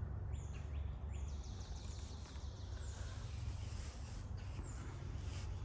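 Outdoor ambience: a bird calling repeatedly with short, high, falling chirps every second or two over a steady low rumble.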